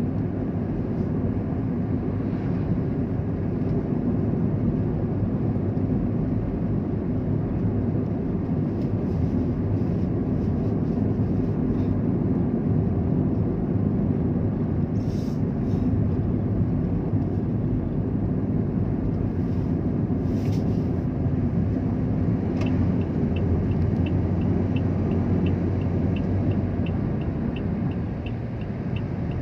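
A road vehicle driving steadily, its engine and tyre noise making a continuous low rumble. In the last quarter a rapid, even ticking of about three ticks a second starts up over it.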